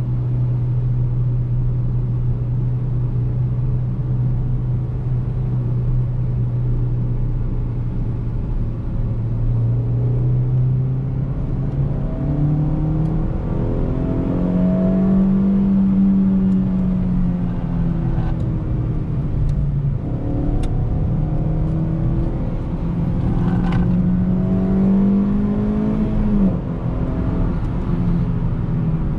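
2008 Suzuki Swift Sport ZC31's 1.6-litre four-cylinder engine driving along over road noise. It holds a steady drone for about ten seconds, then rises in pitch under acceleration, eases off, climbs again and drops sharply near the end.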